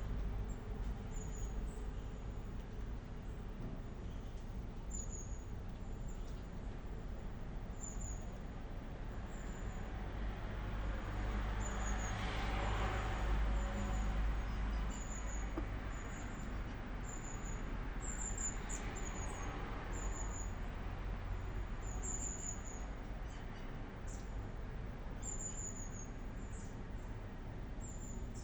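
Short, very high bird chirps repeating about once a second, over a steady low rumble of traffic; a vehicle swells past about halfway through.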